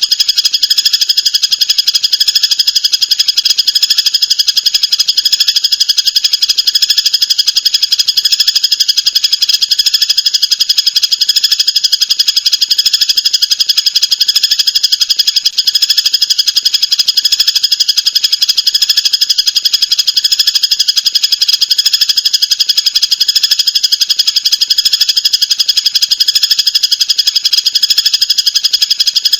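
Songbird recording for training cage birds: a dense, unbroken, very rapid high-pitched trill of chattering notes that holds steady without pauses.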